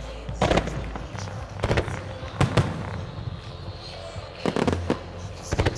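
Aerial firework shells from a wide starmine barrage bursting in groups of sharp booms, a cluster every second or so, with the loudest bursts about halfway through and again near the end.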